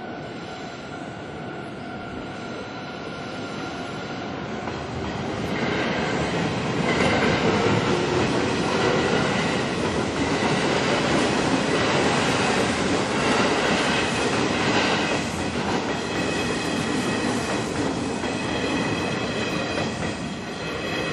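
Kintetsu Nara Line electric train passing over a level crossing. It rises over the first few seconds, rumbles and whines through the crossing for about twelve seconds, then fades near the end. The crossing's warning bell rings steadily underneath.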